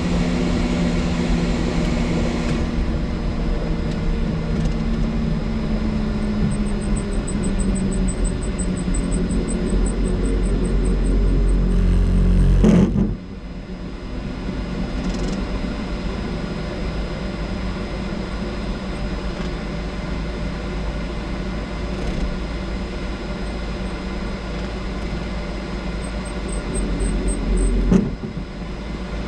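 Helicopter engine and rotor running as a steady drone with a deep rumble. The sound drops abruptly in level about halfway through and again near the end.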